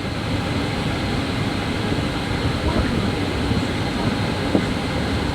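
Steady cabin noise inside a Boeing 777-300ER: an even rumble and hiss of engines and air-conditioning, with one faint tick about four and a half seconds in.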